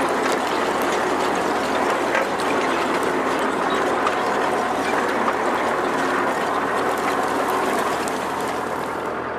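T-40AM tractor running, its engine drone under a dense, steady metallic rattling and clatter. The clatter thins a little near the end.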